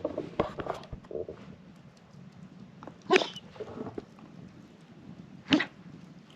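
A dog making short vocal sounds, the two loudest about three seconds and five and a half seconds in.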